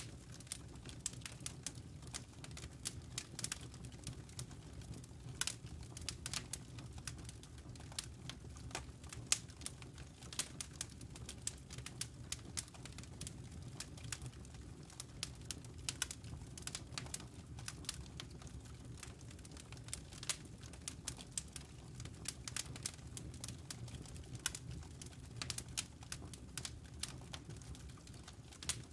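Campfire burning with a steady low rumble of flame and frequent sharp crackles and pops from the burning wood, scattered irregularly throughout.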